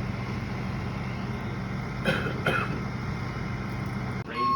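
A motor vehicle engine idling steadily, with two short cough-like sounds about two seconds in. It cuts off abruptly near the end.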